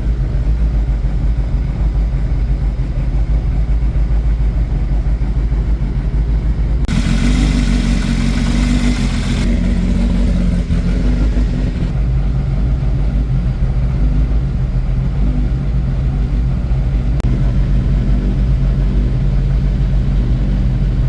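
Nissan Pulsar GTI-R's SR20DET turbo four-cylinder engine running steadily as it warms up, its valve clearances freshly reshimmed. There is little valvetrain ticking, though the owner thinks one or two valves still have a bit of slack.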